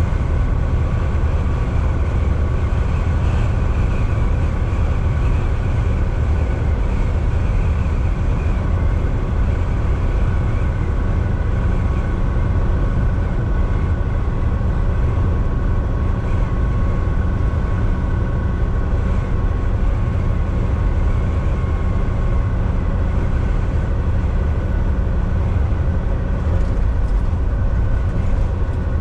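Volvo VNL 760 semi truck running at highway speed, heard from inside the cab: a steady low engine drone with road noise and a faint steady whine.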